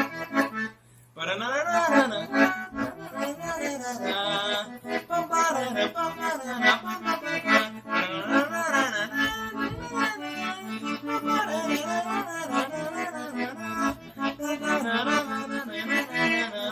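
Accordion playing a tune over its left-hand bass chords in a baião rhythm, after a brief pause about a second in.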